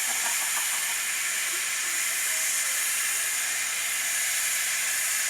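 Steady hiss of steam escaping from a miniature steam locomotive.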